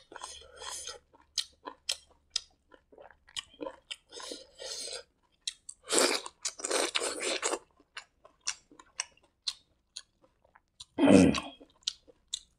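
Close-miked eating: a person chewing fried rice eaten by hand, with many short wet mouth clicks and smacks. A denser run of chewing about six seconds in as a fresh handful goes in, and the loudest mouth sound comes near the end.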